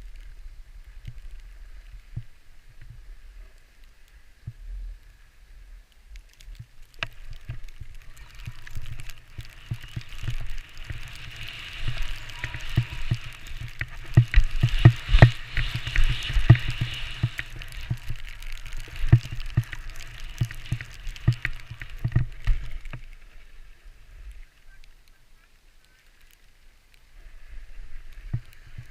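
Skis sliding and scraping over snow, with wind buffeting the microphone in low rumbling gusts. The hiss and buffeting build through the middle, with many short thumps, then ease off near the end.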